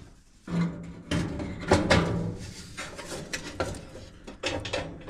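Irregular clunks, knocks and rattles of dryer parts being handled and fitted by hand, several sharp knocks spread through with quieter rustling between.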